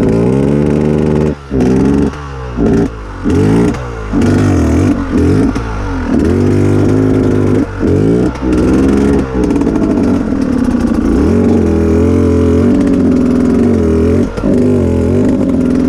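KTM EXC off-road motorcycle engine revving in repeated short throttle blips, its pitch rising and falling, then running more steadily for the last few seconds.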